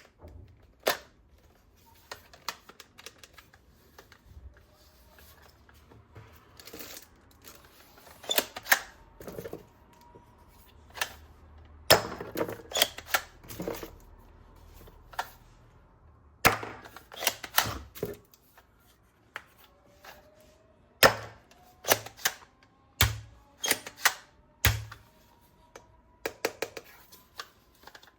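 Hard plastic toy parts being handled, with irregular sharp clicks and knocks, some in quick clusters.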